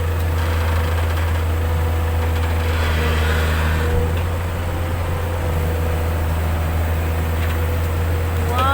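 An engine running steadily at an even pitch, a constant low drone with no revving.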